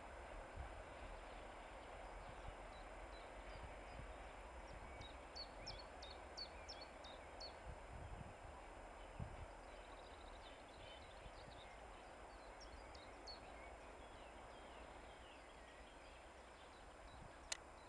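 Near-quiet outdoor ambience: a faint steady hiss, with a few runs of short high chirps from small birds, first about five seconds in and again in the middle, and a single sharp click near the end.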